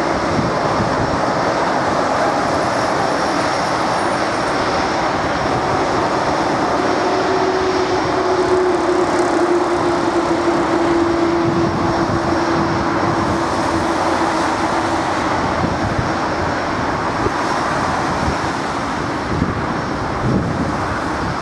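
Airbus A319 jet engines running loud and steady on take-off, with a droning tone that slowly sinks in pitch.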